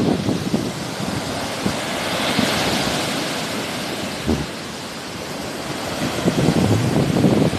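Sea waves washing onto the shore, with a swell of hiss about two to three seconds in, while wind buffets the microphone in low rumbling gusts at the start and again near the end.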